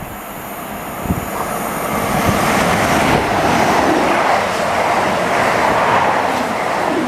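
A train running through the station, the noise of its wheels on the rails building over the first two or three seconds and then holding steady and loud.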